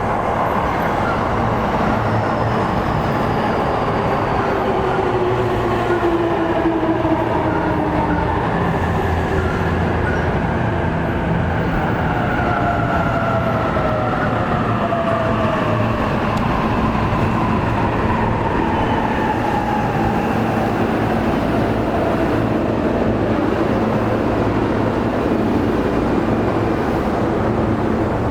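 E233 series electric train pulling in, its motor whine falling slowly in pitch as it brakes, over a loud steady rumble of wheels on rail.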